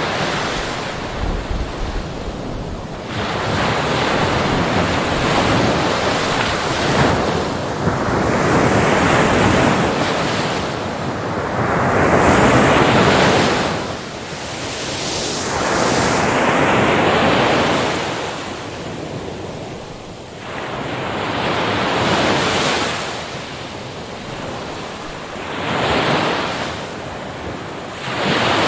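Ocean waves breaking and washing up a beach, each surge swelling and fading every few seconds. A low rumble of wind on the microphone shows near the start.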